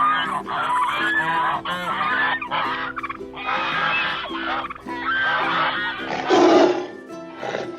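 Geese honking, many short calls overlapping, over background music. One louder call comes about six seconds in.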